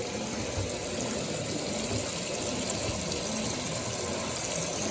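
Brastemp Eggo 1 kg mini washing machine with water gushing and splashing in its tub at the start of a softener rinse, a steady rushing sound.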